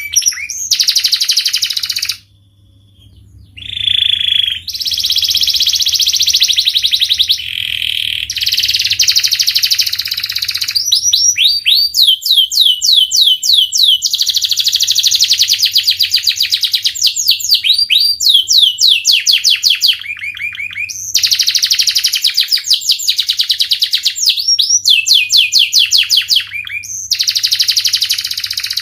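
Domestic canary singing a long, loud song of fast trills and rapidly repeated rising notes, almost without a break, apart from a short pause about two seconds in.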